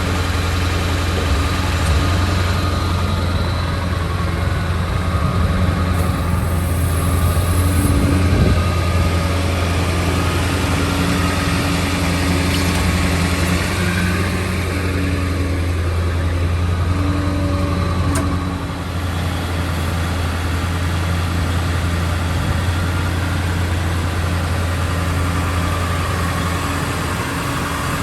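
A Ford 7.3L Powerstroke V8 turbo-diesel idling steadily in a 2000 F550 bucket truck, with a higher hum that fades in and out every few seconds.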